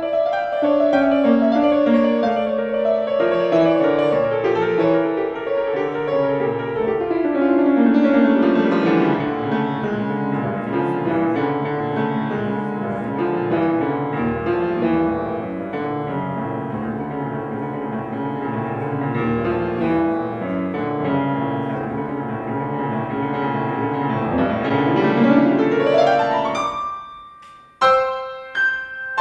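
Solo piano playing a fast, busy passage of flowing runs, in the style of a blizzard piece. Near the end a long run climbs upward, breaks off briefly, and is followed by separate loud struck chords.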